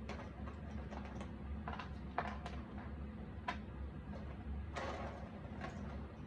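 Cardboard jigsaw puzzle pieces being handled: scattered small clicks and taps as pieces are picked up, set down and pressed into place, with a couple of brief rustles, over a steady low hum. The sharpest clicks come about two seconds in and again near the middle.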